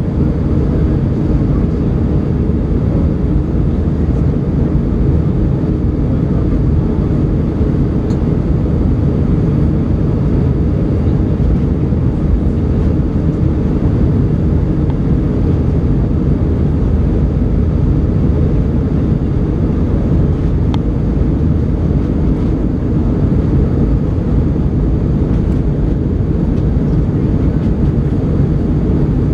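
Cabin noise aboard an Airbus A320 after takeoff: a steady low drone of jet engines and rushing air, even in level throughout.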